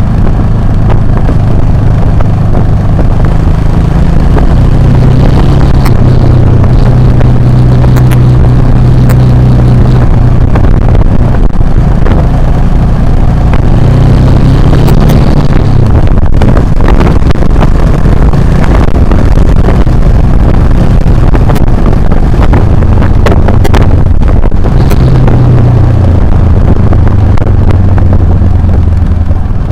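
Motorcycle engine running under way off-road, its note rising and falling as the throttle and gears change. Scattered sharp knocks and clatter come through, most in the middle of the stretch.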